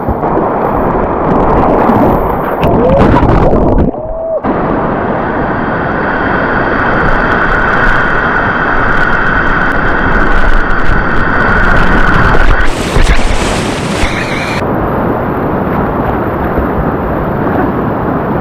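Loud, steady rushing of whitewater rapids, with water and wind buffeting the microphone. The sound changes abruptly twice.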